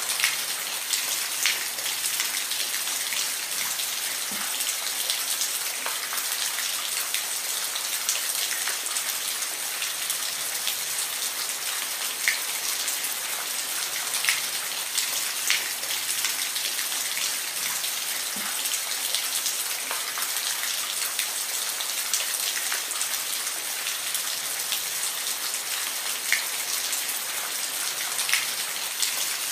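Steady rain falling, an even hiss with scattered close drops ticking on a surface.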